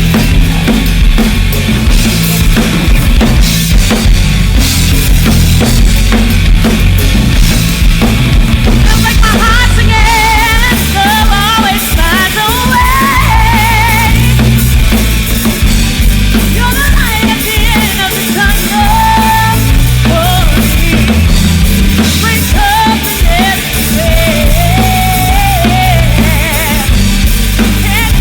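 A rock band playing live, with a full drum kit and bass driving a steady groove. About nine seconds in, a lead melody with bends and vibrato comes in over it.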